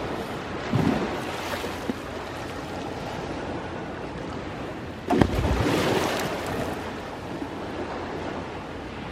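Ocean waves washing onto the shore in a steady surf hiss. A small wave breaks about a second in and a bigger one breaks about five seconds in, the loudest moment, with a few faint clicks between them.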